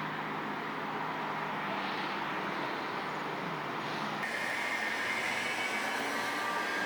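Steady vehicle noise, with an abrupt change in its character about four seconds in.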